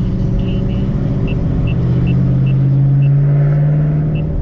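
Car engine running steadily, heard from inside the cabin while driving, its pitch rising gently about halfway through as the car speeds up a little. A short high tick repeats about two or three times a second over it.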